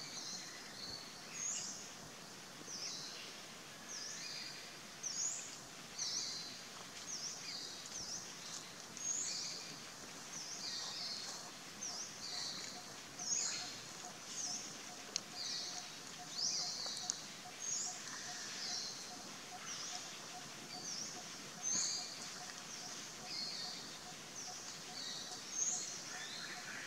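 A bird calling over and over in forest, short high notes that slide downward, repeated every second or two over a steady background of forest noise; a faint steady tone comes in about halfway through.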